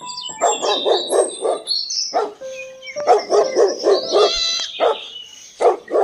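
A dog barking repeatedly in quick short barks.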